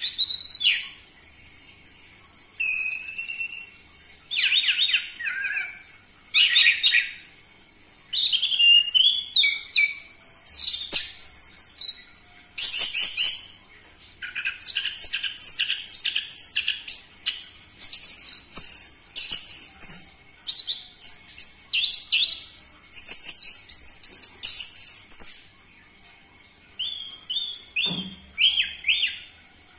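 Orange-headed thrush singing a long run of varied, rapid whistled phrases, with short pauses between the bursts.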